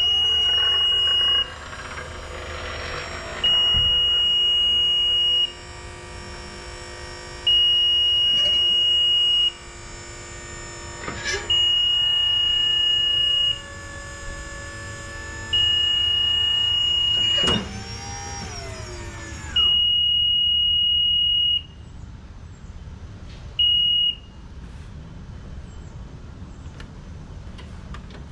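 Bil-Jax 36 tow-behind boom lift being set up: its warning alarm sounds a loud, steady high beep about two seconds long every four seconds, seven times, the last one cut short. Under the first six beeps its power unit runs with a steady whine, which slides down in pitch and stops about two-thirds of the way through.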